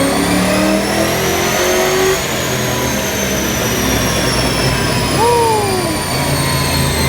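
Fox-body Mustang's V8 with an AOD automatic making a chassis-dyno pull: the engine and drivetrain whine rise in pitch for about two seconds, then the throttle closes and the pitch falls slowly as the car and dyno rollers coast down.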